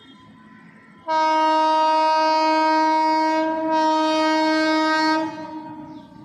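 Indian Railways electric locomotive horn sounding one long, steady blast of about four seconds. It dips briefly once midway, then fades out.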